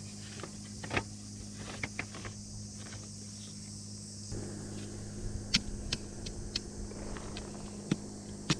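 Firewood being handled: scattered light clicks and knocks of wood pieces, a few sharper ones, over a steady low hum.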